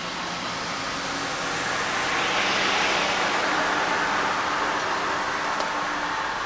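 Steady rain, with a vehicle's tyres hissing past on the wet road: the hiss swells to a peak about two and a half seconds in and then fades.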